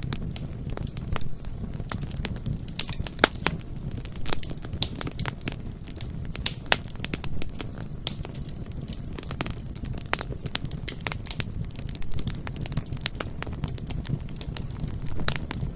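Bonfire burning, with a steady low rumble of flames and irregular sharp crackles and pops of wood, several a second.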